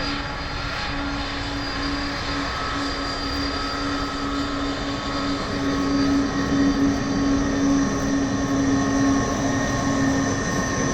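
Airbus A300-600 jet airliner's twin turbofan engines running, a steady roar with a constant hum and a higher whine over it, growing a little louder about halfway through.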